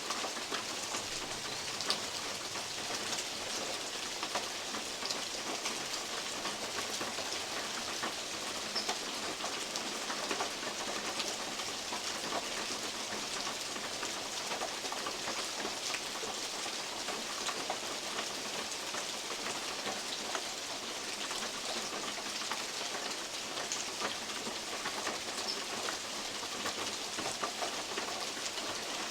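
Steady rain hissing through the woods while large drops from oak leaves tap on a metal roof, scattered irregular ticks over the hiss.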